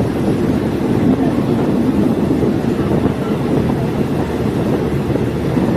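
Diesel multiple unit train running: a steady, mostly low-pitched noise of engine and wheels on the track.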